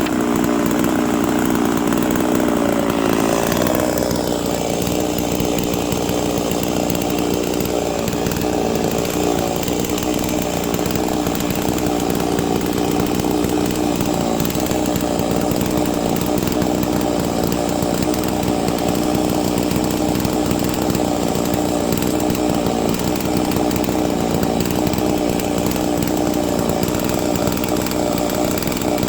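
Big-bore 98.5cc Holzfforma G660 chainsaw running at high revs under load in a Norwood chainsaw mill, ripping a log lengthwise. Its engine note dips a little about three seconds in as the chain bites, then holds steady.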